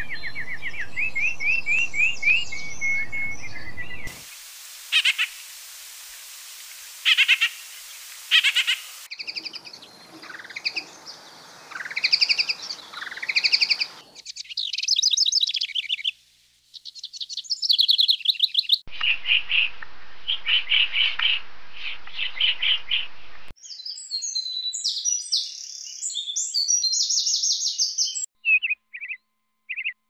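A succession of different small birds chirping and singing: rapid trills, repeated chirps and short rising whistles, with the song changing abruptly every few seconds. Near the end come short, high chirps separated by brief gaps.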